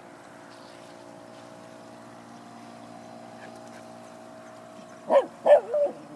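Model boat's motor running at full speed, a faint steady hum that rises slightly in pitch midway. About five seconds in, a schnauzer barks three times, loud and close.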